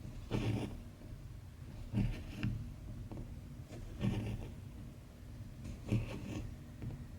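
Needle and embroidery thread pulled through cross-stitch fabric, a soft rubbing pull repeating about every two seconds, sometimes two close together.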